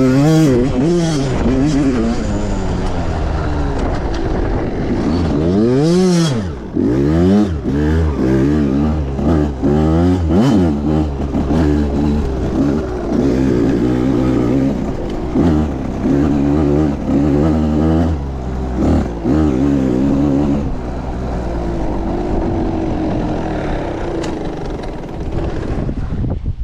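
Pit bike engine revving hard, its pitch repeatedly rising and falling as the throttle is worked. About 6 s in it revs up sharply and dips, and in the last few seconds it settles to a steadier running note.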